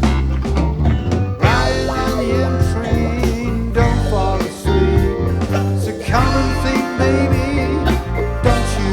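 A rock band playing live: electric guitars, bass guitar, keyboard and a drum kit with percussion, in a steady groove.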